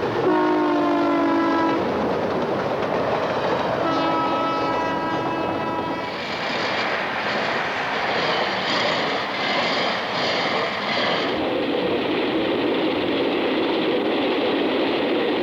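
Passing train: a locomotive horn sounds two chord blasts. The first is about a second and a half long and sags slightly in pitch; the second comes around four seconds in. After them comes the steady rumble of the train running on the rails, pulsing for several seconds and then evening out.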